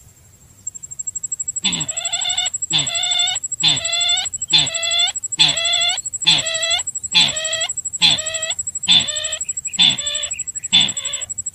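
Repeated call of the sintar bird, a fowl-like clucking note given about once a second, each with a low part sliding downward under higher ringing tones. It is a lure call for attracting the bird, and a thin steady high-pitched whine runs under it.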